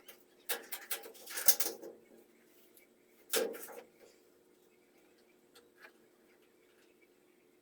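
Tools and parts being handled during washing-machine repair work. A quick cluster of clicks and knocks comes in the first two seconds, then one louder knock about three and a half seconds in, then only a few faint ticks.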